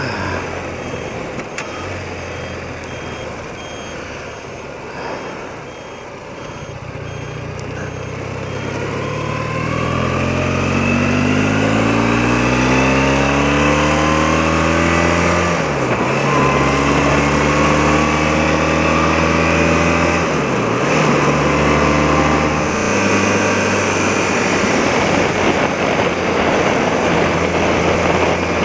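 Engine of a 30-year-old BMW motorcycle on the move, still warming up. It pulls up through the revs from about seven seconds in, drops briefly twice around the middle as if changing gear, then runs steadily at speed.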